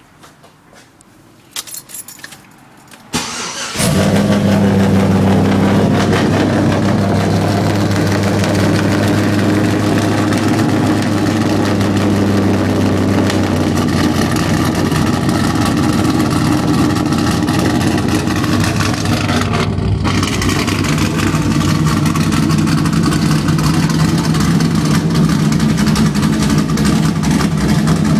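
1999 Pontiac Firebird's LS1 V8, fitted with a custom-grind Isky camshaft, long-tube headers and an SLP cat-back exhaust, cranking and catching about three seconds in, then idling steadily. A few clicks come before it starts.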